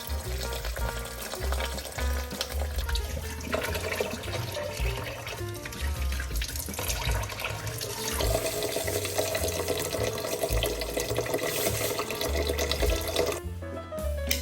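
Water running from a tap into a sink, over background music; the flow gets louder about eight seconds in and stops abruptly near the end.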